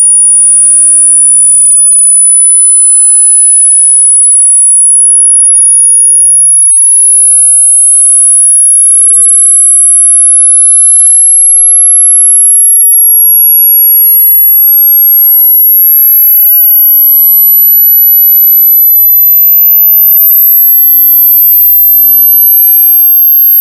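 A loud, very high-pitched electronic pure tone, held without a break, its pitch rising slowly and steadily.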